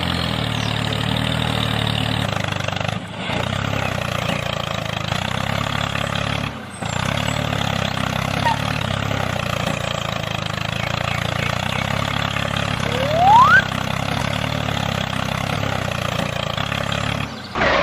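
Tractor engine idling steadily, with one short rising whistle about two-thirds of the way through.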